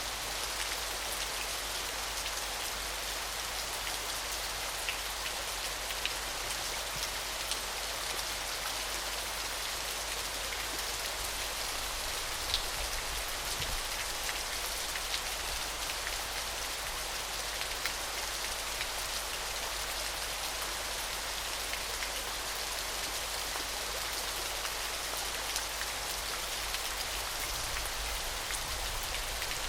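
Small, gentle waterfall splashing steadily: an even, high hiss of falling water with scattered faint droplet ticks.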